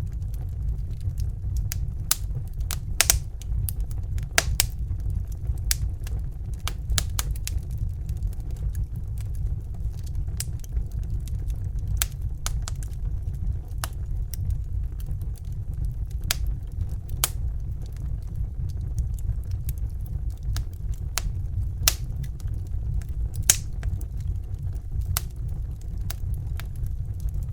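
Fire crackling, with irregular sharp pops and snaps of varying loudness, over a steady low rumble.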